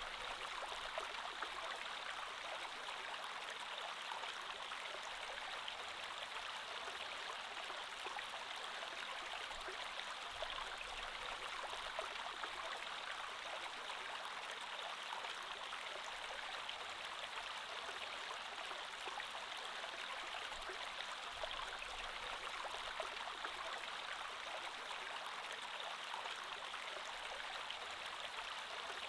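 Creek water flowing steadily over rocks, an even rushing with small trickling splashes.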